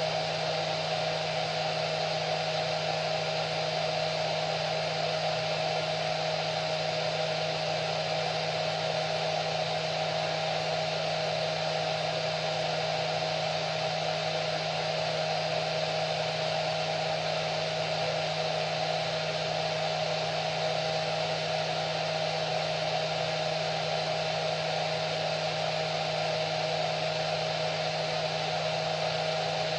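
Hair dryer running continuously at a steady speed: an even rushing of air over a steady motor hum and a faint whine, with no change in pitch or level.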